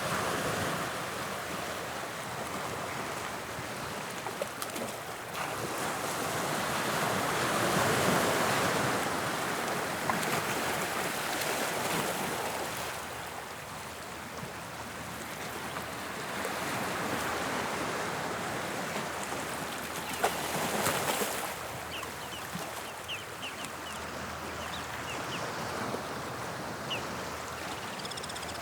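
Sea waves breaking and washing up a beach on the English Channel, the surf swelling and falling back in slow surges. It is loudest about eight seconds in, and again near twenty seconds with a sharp crash.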